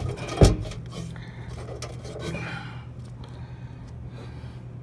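A sharp metallic clack about half a second in, followed by light clinks and rustling of metal parts being handled, over a steady low hum.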